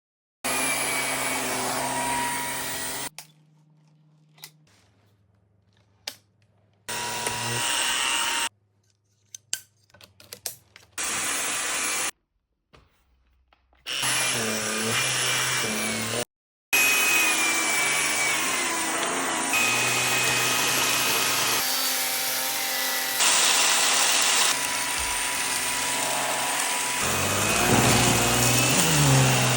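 Shark Evo Power System Neo+ cordless stick vacuum running with a steady motor whine in several stretches of a few seconds each. These are cut apart by sudden quiet gaps that hold a few clicks.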